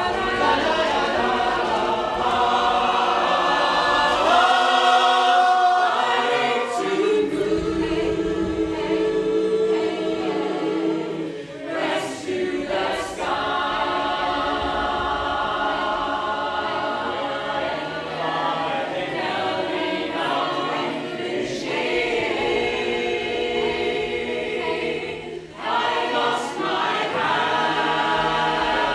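A choir singing held chords in several parts, with short breaks about twelve seconds in and again near the end.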